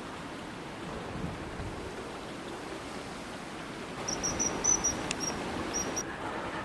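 Common kingfisher calling: a run of about eight short, high piping notes about four seconds in, lasting roughly two seconds, over the steady rush of flowing river water.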